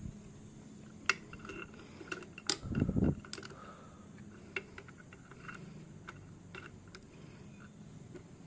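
Metal tools and engine parts being handled, giving scattered clicks and clinks, with a brief louder low thud about three seconds in.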